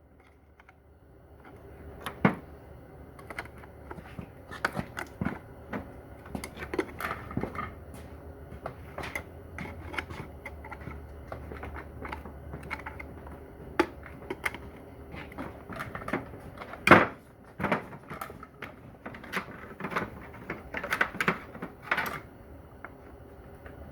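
Hand tools and metal parts clinking and knocking irregularly as a Corvair Powerglide transmission is worked apart, with one louder knock about two-thirds of the way through. A low steady hum runs underneath.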